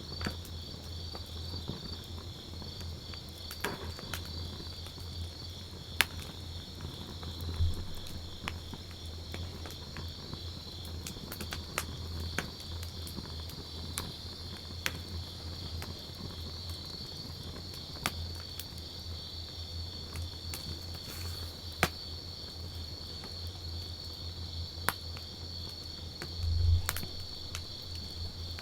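Wood campfire crackling, with sharp pops at irregular intervals, over a steady, high, pulsing chirring of crickets. Two low thumps stand out, about a quarter of the way in and near the end.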